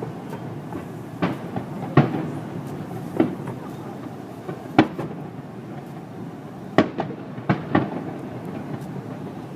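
Aerial fireworks going off: a string of sharp bangs at uneven intervals, several close together near the end, over a steady rumble of crackle and echo.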